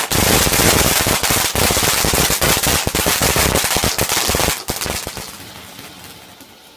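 Firework going off in a rapid, dense crackling barrage of bangs, like a firecracker string. It stops sharply about four and a half seconds in, then fades away to a faint crackle.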